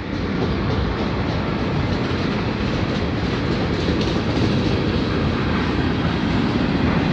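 Freight train cars rolling past: a steady noise of steel wheels running on the rails.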